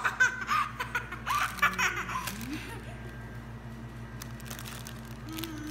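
People, children among them, laughing and giggling in short bursts in the first two seconds, over a steady low hum.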